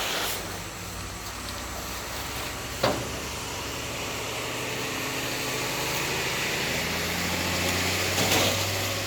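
Engine of a 14-wheel truck running steadily as it is driven. There is a sharp click about three seconds in and a short burst of hiss near the end.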